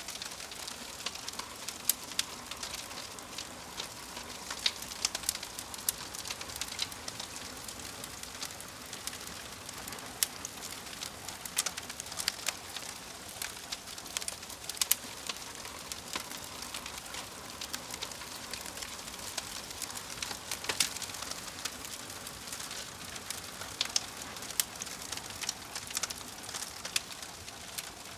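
Wood fire burning in a fireplace: a steady hiss with many sharp, irregular crackles and pops from the burning logs.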